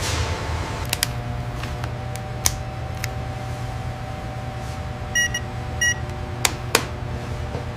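Steady low machine hum with a few sharp clicks, and two short electronic beeps a little over five seconds in, under a second apart.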